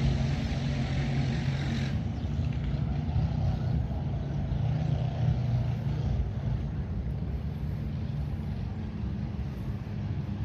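Engine running steadily at a constant low pitch, with no change in speed.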